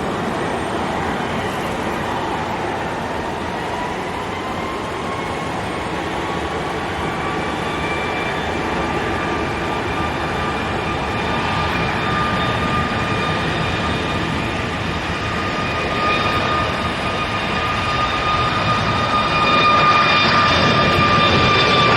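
Boeing 737 MAX 8's CFM LEAP-1B turbofan engines spooling up for takeoff: a jet roar with a whine that rises in pitch over the first several seconds, then holds steady at takeoff thrust while the noise grows louder near the end.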